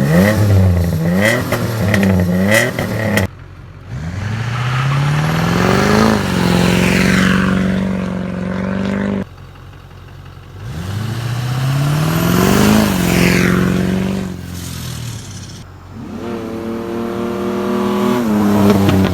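Engine revving up and down over and over, its pitch climbing and falling with each blip of the throttle, in several short separate stretches that cut in and out abruptly.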